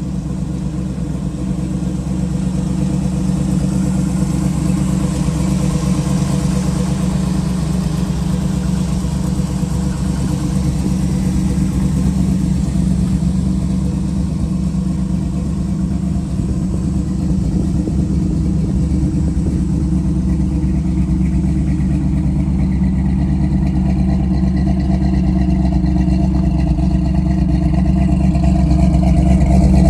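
A 454 big-block Chevrolet V8 running steadily at idle, a little louder toward the end.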